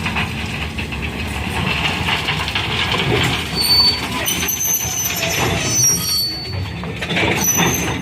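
Rail vehicle running along the track with a steady rumble, and a few short, thin, high-pitched wheel squeals in the second half.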